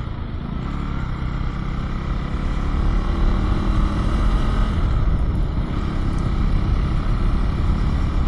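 A Husqvarna-branded KTM motorcycle being ridden, its engine running steadily under a low, even rumble of riding noise.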